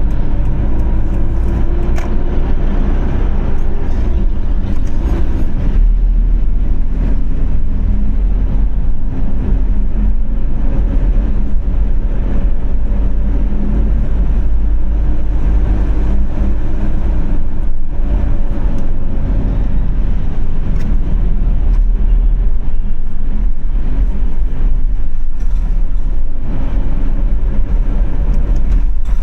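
Car being driven: a steady, loud low rumble of engine and road noise with faint drifting engine tones.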